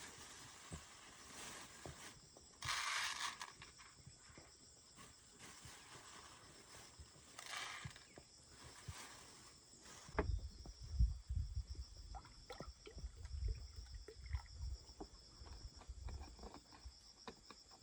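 Insects, likely crickets, chirring steadily, with several brief rustling swishes in the first half. From about ten seconds in come low thumps and scattered clicks.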